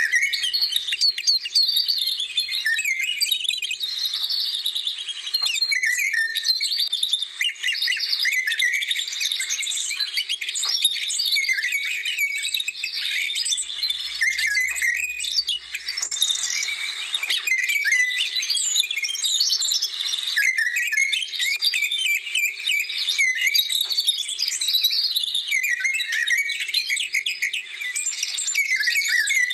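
Many small songbirds singing and chirping at once, a dense, continuous chorus of overlapping high twitters and trills.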